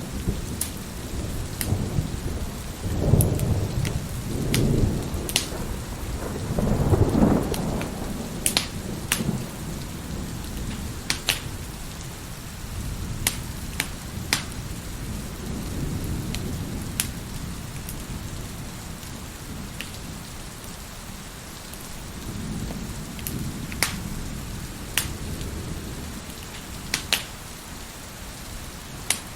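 Wood fire crackling, with sharp pops every second or two, over steady rain and rolling thunder. The thunder swells loudest about three to seven seconds in, then rumbles more softly twice later on.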